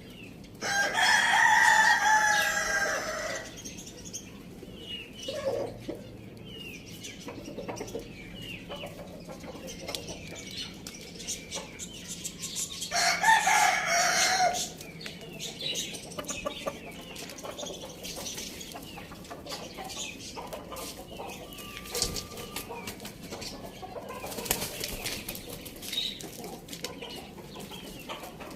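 A rooster crows twice, each crow about two and a half seconds long and roughly twelve seconds apart, with chickens clucking softly in between.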